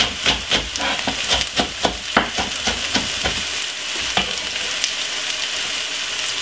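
Diced white onion, garlic and thyme sprigs sizzling in hot oil in a frying pan: a steady hiss with frequent sharp crackles for the first three seconds or so, then a smoother sizzle with only an occasional pop.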